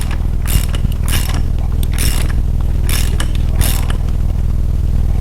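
A chainsaw running steadily in the background, with short scraping strokes of a ratchet wrench about once a second as the rocker-arm nuts on a Chevy 350 are tightened down on the pushrods.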